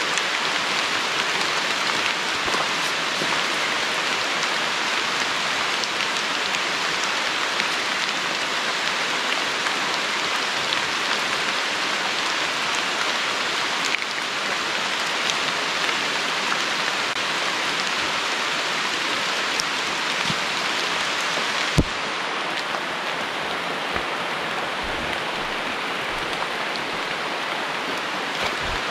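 Heavy rain falling steadily, with one sharp knock about three quarters of the way through, after which the rain is a little quieter.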